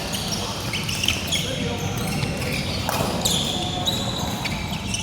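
Badminton rally on an indoor court: shoes squeaking on the court floor and sharp hits of rackets on the shuttlecock, over a steady low hum and voices in the hall.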